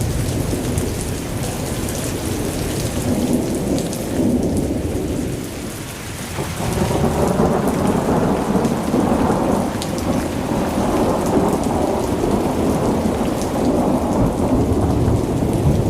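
Heavy rain pelting a moving car in a thunderstorm, with a deep rumble of thunder underneath. The downpour eases briefly, then comes on louder again about seven seconds in.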